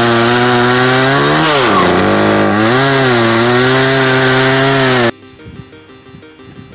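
Echo CS-305 two-stroke chainsaw engine running steadily after a no-start caused by fuel and bar oil in swapped tanks. Its pitch sags for about a second, about a second and a half in, and picks back up. The engine sound cuts off suddenly about five seconds in and quieter background music follows.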